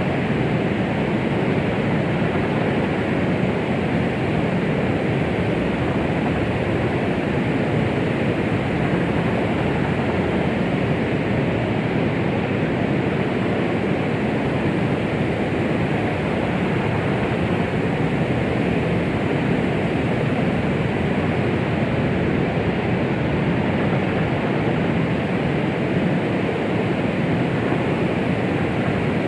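Steady womb-sound white noise for soothing a baby: an even, unbroken rushing hiss that is fuller in the low and middle range than at the top, with no heartbeat or other pattern in it.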